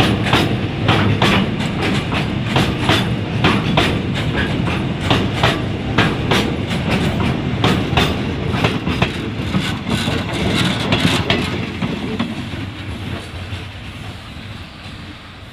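Freight train of container flatcars passing close by: a heavy rolling rumble with a rapid clickety-clack of steel wheels over rail joints. From about twelve seconds in, the sound fades as the last coach rolls away.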